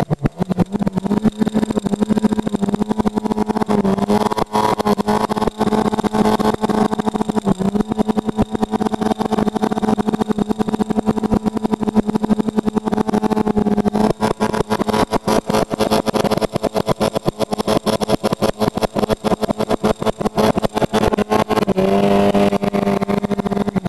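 Volkswagen Jetta Mk2 8-valve four-cylinder engine held at steady high revs for a long stretch during a smoky burnout, heard from inside the car, its note rapidly chopped; the pitch dips briefly a couple of times and shifts near the end.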